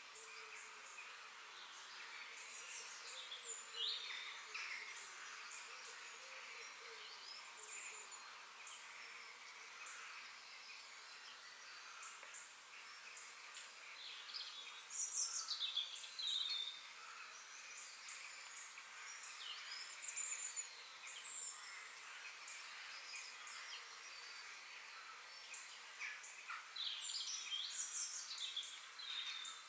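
Several wild birds chirping and calling in short, scattered phrases, some sliding in pitch, over a faint steady background hiss; the calls come thickest about halfway through and again near the end.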